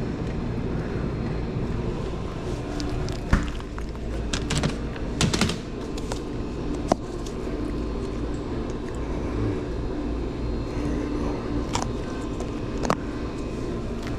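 Steady low background hum of a large store with scattered light clicks and knocks, the loudest about three seconds in, from handling things on the shelves.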